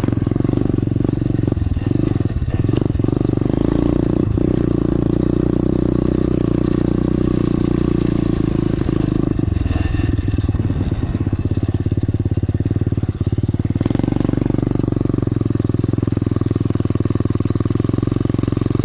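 Dirt bike engine running steadily while being ridden, its pitch shifting about halfway through and again near three quarters of the way through as the throttle changes.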